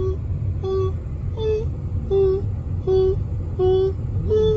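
Low road and engine rumble inside a moving car, with a short pitched tone repeating steadily about every three quarters of a second, now and then a note a little higher.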